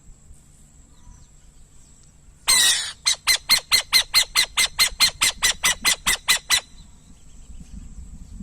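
Burrowing owl calling: a harsh rasping screech, then a fast run of about seventeen short, sharp notes at about five a second, lasting some three and a half seconds.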